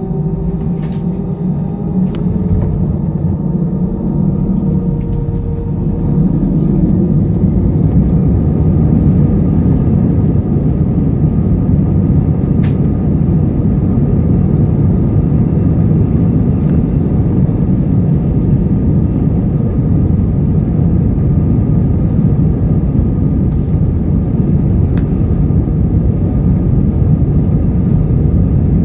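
Airbus A320 cabin noise: jet engine whine rising in pitch over the first few seconds, then a loud, steady rumble from about six seconds in.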